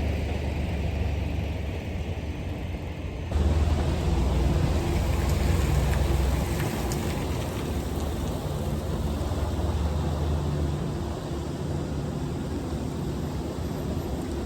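Semi-truck's diesel engine running, its low hum shifting in pitch. A broad hiss comes in suddenly about three seconds in and stays on.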